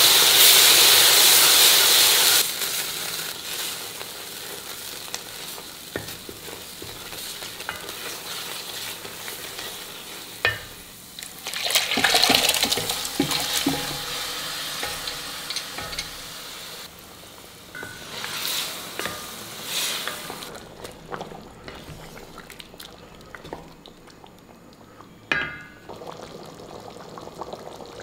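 Ground masala paste sizzling in oil and being stirred with a wooden spatula: a loud, even sizzle for the first couple of seconds, then quieter. Scattered knocks and splashes follow as mutton pieces go into the gravy.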